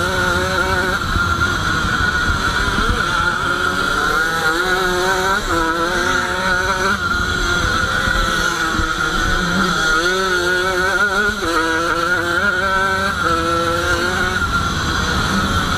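Jawa 50 cross bike's small two-stroke engine revving under hard riding, its pitch climbing and dropping every second or so with throttle and gear changes over a steady high whine. Wind rumbles on the on-board microphone.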